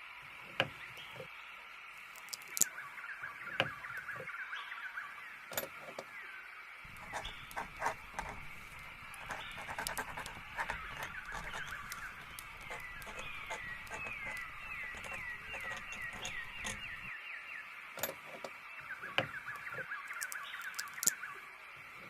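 Small songbirds chirping in rapid, repeated trills, with scattered sharp clicks and taps throughout and a low rumble in the middle stretch.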